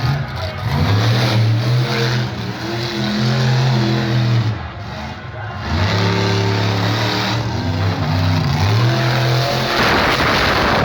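Monster truck engine revving hard, its pitch rising and falling several times as the throttle is worked, with a louder, rougher burst near the end.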